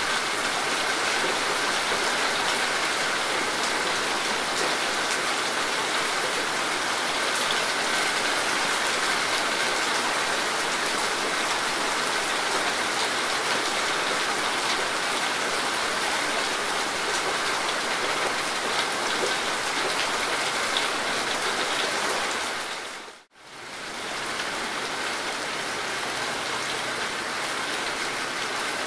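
Steady rain falling in a continuous wash. About three-quarters of the way through, the sound dips out to near silence for a moment, then comes back a little quieter.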